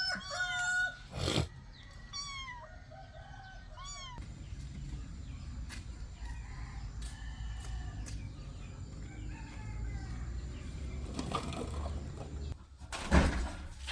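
Kittens meowing, several short rising-and-falling mews in the first second and fainter ones about three seconds in. A loud sudden knock or rustle comes near the end.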